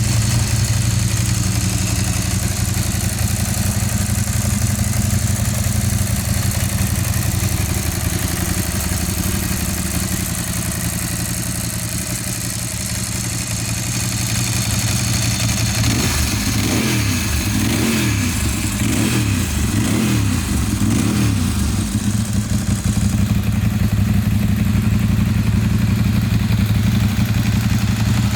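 Ducati 748 SP's 90-degree V-twin engine idling steadily, then revved in a run of quick throttle blips about two-thirds of the way through, each rising and falling back, before settling to idle again.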